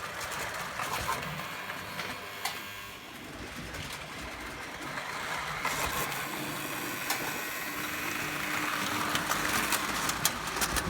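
Tinplate O gauge toy train running along its track: a steady whirring rattle with scattered clicks from the wheels.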